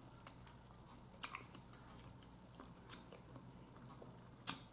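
Faint chewing and gnawing on a jerk chicken piece off the bone, with a few short crunches of gristle, the sharpest about a second in and near the end.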